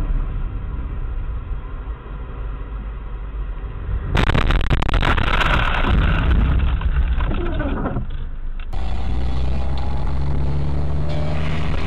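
Car driving noise heard from inside the cabin: low engine and road rumble. It changes abruptly twice, about four and nine seconds in, becoming louder and harsher in the middle stretch and settling to a steady engine hum at the end.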